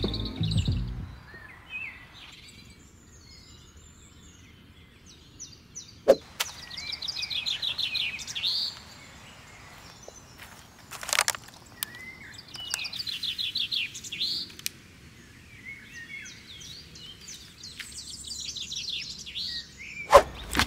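Songbirds singing: rapid trilled phrases repeated every few seconds, with a few sharp clicks or knocks between them.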